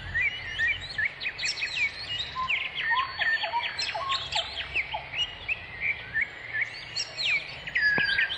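Birds chirping: many quick, overlapping chirps and short sweeping calls, busiest around the middle and toward the end.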